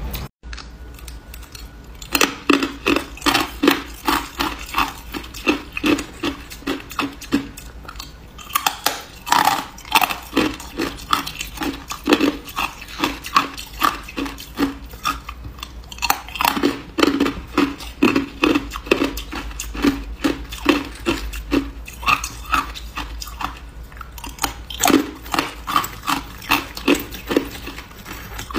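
A person chewing hard ice close to the microphone: quick, sharp crunches, about three a second, in runs broken by short pauses.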